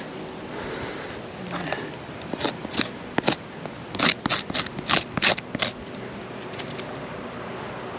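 Asphalt roof shingle tabs popping and crackling as they are lifted and pulled loose from their sealant strips: a quick run of about ten sharp cracks over some three seconds, starting a couple of seconds in. The popping is the sound of the tabs delaminating.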